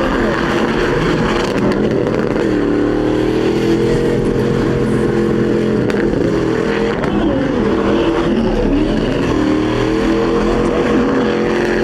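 Several truck engines revving hard together, their pitches rising and falling over and over.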